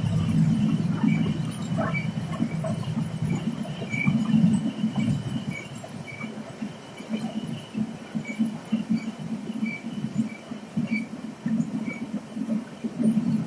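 Running noise of a passenger train heard from inside the coach: a low, unevenly pulsing rumble from the wheels on the track, easing a little after a few seconds, with a small high squeak repeating about once a second.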